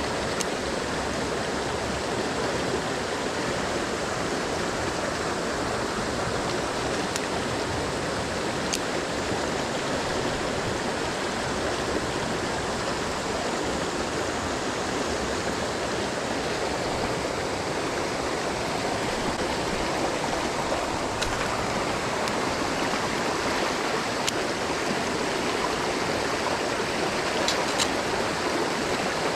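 Mountain stream water rushing steadily over rocks, with a few faint ticks now and then.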